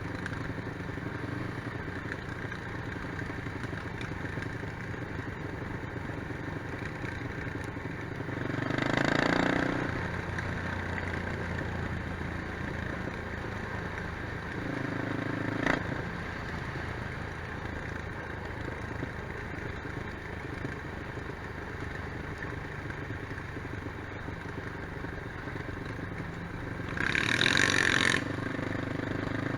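Quad bike (ATV) engines running steadily on an off-road ride, with two louder, brief surges of revving, one about nine seconds in and one near the end, and a single sharp knock in between.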